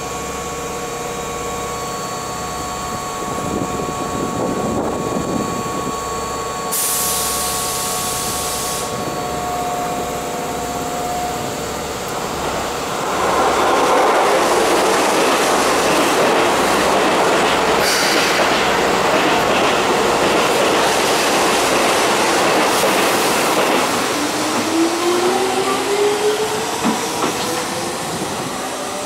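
Keihan electric trains at a station platform: a train running along the track with loud wheel and rail noise and a sharp crack partway through, preceded by a brief burst of hiss. Near the end the 6000 series train's electric motor whine rises in pitch.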